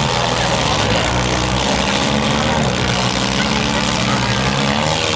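Demolition derby car engines running, a steady loud mechanical drone.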